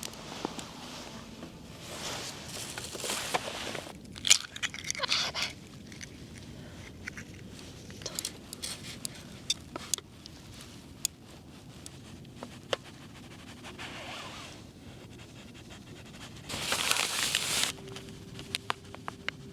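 Food-preparation handling noises: three bursts of rustling and crinkling, about two, four and sixteen seconds in, with scattered small clicks and crunches between them.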